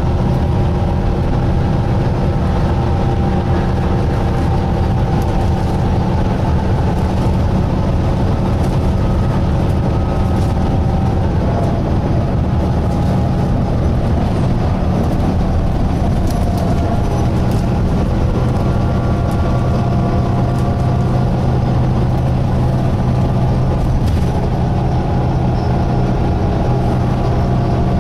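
A Volvo B9TL double-decker bus heard from inside while it runs: the diesel engine hums low and steady, with several held whining tones from the drivetrain and a few light clicks and rattles.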